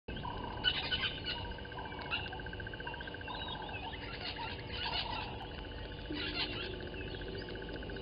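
Several wild birds chirping and calling in the bush, the calls coming in small clusters. Underneath runs a steady, fast-pulsing trill that drops out for a moment around the middle.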